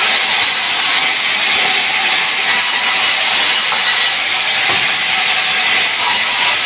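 Sawmill saw cutting sengon (albizia) wood, a loud, steady, high hissing noise that runs on without a break.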